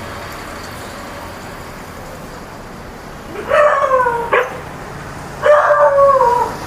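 Stray dogs barking: after a few seconds of near-quiet, two drawn-out barks that fall in pitch, the first about halfway through and the second, longer one about a second later.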